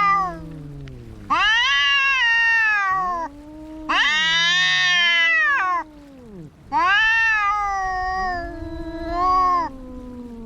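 Cats yowling in a fight standoff: long, drawn-out, wavering caterwauls of about two seconds each, coming one after another and overlapping in places.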